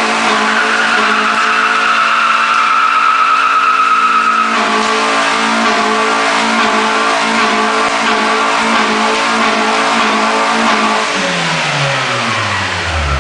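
Turbocharged Suzuki Baleno engine held at high revs during a burnout, with tyre squeal over the first four seconds or so. About eleven seconds in, the revs fall away steadily as the throttle is let off.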